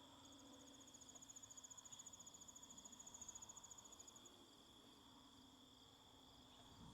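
Faint insect song: a rapid, evenly pulsed high trill runs for about four seconds and then stops, over a steady high-pitched insect drone.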